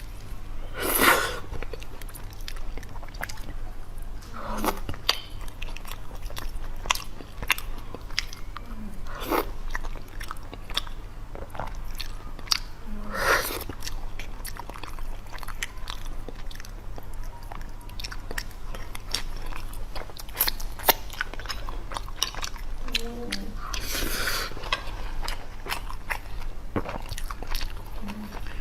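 Close-miked eating: steady chewing with wet mouth clicks and lip smacks, and a few louder short mouth sounds every few seconds. The food is rice mixed with braised sauce and fatty pork intestine.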